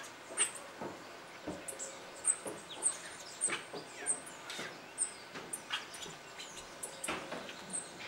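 Birds calling: a busy run of short chirps and whistled notes from several birds, a few a second, some high and clipped, some sliding down in pitch.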